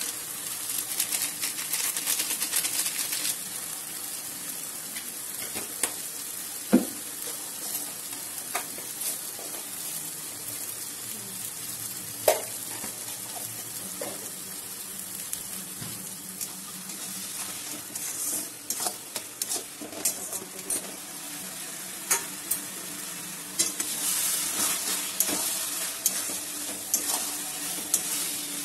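Onion masala sizzling steadily in a metal kadai, with a few sharp knocks of a metal spatula against the pan. Near the end the spatula stirs and scrapes the frying mixture, more busily and louder.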